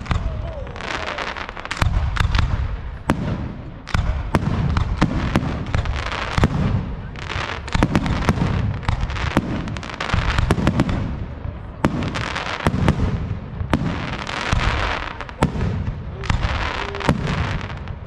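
Aerial firework shells bursting one after another, about one boom a second, each followed by a dense crackle and fizz from the bursting stars.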